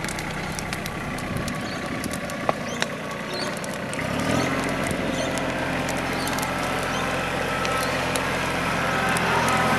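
TYM compact tractor's diesel engine running, its note changing and settling into a steadier, deeper pattern about four seconds in, with scattered sharp cracks over it.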